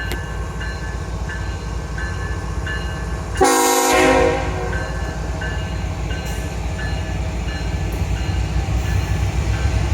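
Long freight train rolling past with a steady low rumble, under a ding that repeats about every two-thirds of a second. A short horn blast sounds about three and a half seconds in.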